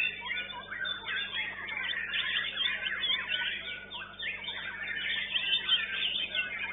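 White-rumped shama (murai batu) singing in a bird-song contest: a fast, unbroken stream of varied chirps, whistles and trills, with other caged songbirds singing at the same time.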